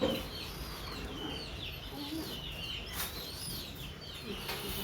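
Many small birds chirping over one another in short, wavering high calls, with a sharp click about three seconds in.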